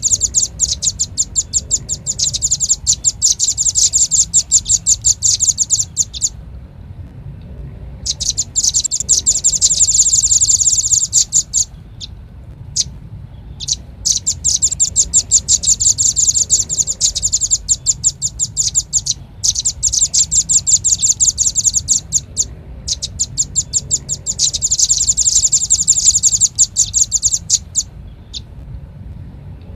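Velvet-fronted nuthatch (rambatan paruh merah) calling: long runs of rapid, high, sharp notes in bouts of several seconds, broken by short pauses, used as a bird-lure call.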